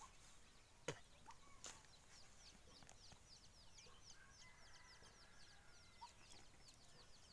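Faint outdoor ambience of birds chirping in quick, repeated short downward notes, with a fainter drawn-out call about four seconds in and a couple of soft clicks near the start.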